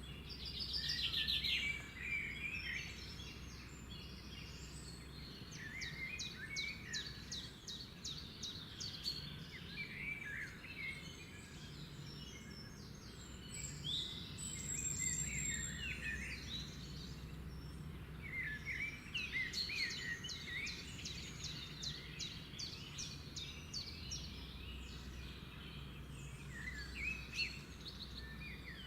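Birds singing: a busy, varied mix of chirps, short whistled phrases and rapid trills from several birds, over a steady low background hum.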